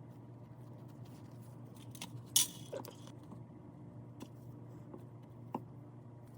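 A few light clicks and clinks, like small metal parts being handled, the loudest about two and a half seconds in, over a steady low hum.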